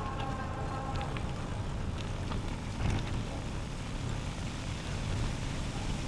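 Steady low rumble of a bicycle ride: wind on the microphone and tyres rolling on the trail, with occasional small clicks and rattles. A faint steady whine fades out about a second in.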